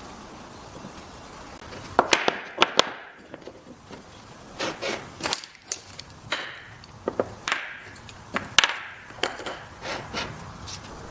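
Wooden pieces knocking and clattering: an irregular run of sharp knocks, clustered in several short bursts.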